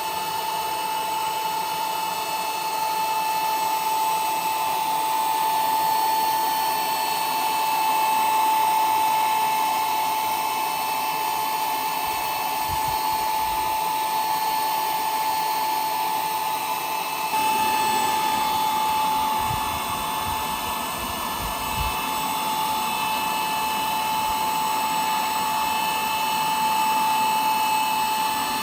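A small motor, such as a power tool's, running steadily with a constant high-pitched whine. Its tone shifts slightly a little past halfway.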